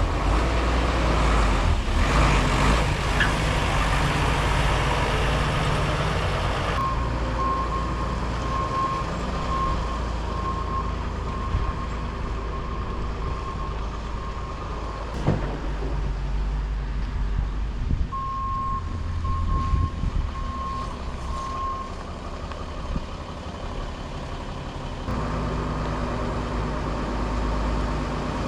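Heavy diesel vehicle running at low speed, with a reversing alarm beeping steadily in two runs, the first starting about a quarter of the way in.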